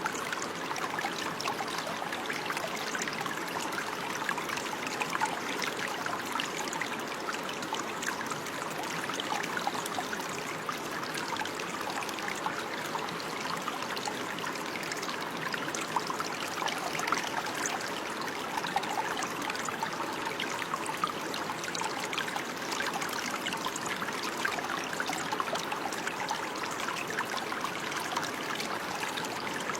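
Running water flowing and trickling steadily, with many small splashes and no let-up.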